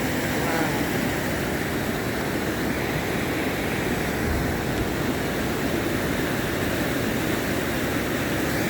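Steady, even rushing of a flood-swollen creek in heavy rain.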